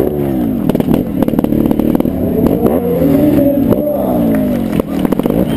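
Motorcycle engine revving up and down in repeated blips at low riding speed, with scattered ticks and clatter.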